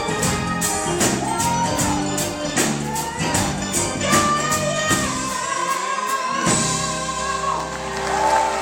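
Live band playing a song with singing over a rhythmic beat; about five seconds in the beat stops and the singers and band hold long sustained notes.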